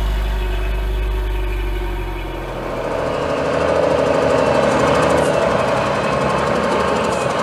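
Mercedes-Benz Unimog's diesel engine running, with a deep low rumble at first, then growing louder with a higher engine note from about three seconds in.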